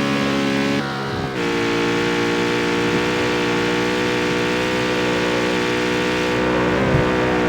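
Jaguar F-Type's supercharged V8 running at steady revs, its note holding an even pitch. The note dips briefly about a second in, and there is a short low thump near the end.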